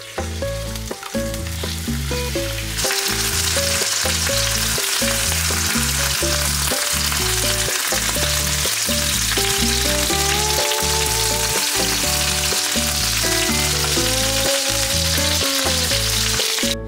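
Chicken thighs frying in oil in a nonstick frying pan: a loud, steady sizzle that starts suddenly about three seconds in, over background music.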